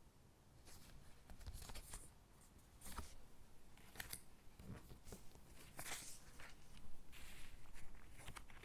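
Stickers being peeled off their backing sheet and pressed onto paper gingerbread cutouts: soft, irregular crackles, rustles and small clicks of paper and sticker handling.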